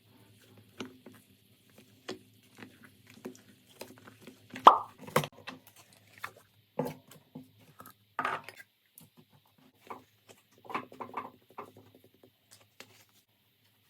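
Slime being squished and pressed by hand, making irregular sticky pops and crackles, the loudest a little before halfway through. They stop about a second before the end.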